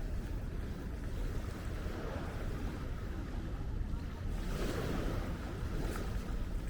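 Wind rumbling steadily on the microphone over the wash of small Baltic Sea waves, the wash swelling briefly a little past the middle.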